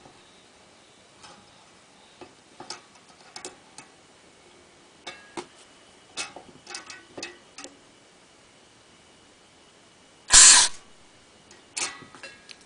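Small clicks and taps of handling carburetor parts, then, about ten seconds in, a short hiss of compressed air blown through the carburetor's slow (pilot) jet to check that its passage is clear.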